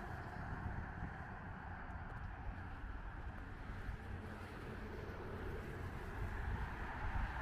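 Steady city-street traffic rumble, growing a little louder near the end.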